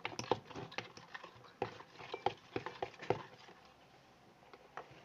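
Homemade clear-glue-and-borax slime being worked in its container: a quick irregular run of wet clicks and squelching pops, densest over the first three seconds, then only a few.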